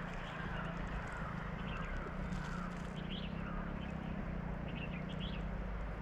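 Birds calling in a string of short arched chirps, with a few higher chirps scattered through, over a steady low rumble of outdoor background noise.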